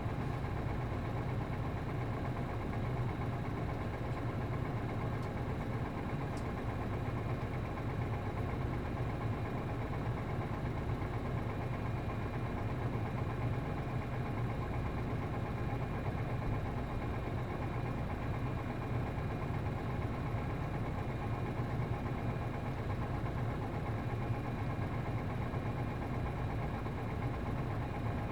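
MD92TJ diesel engine of a route bus idling steadily, heard from inside the cabin.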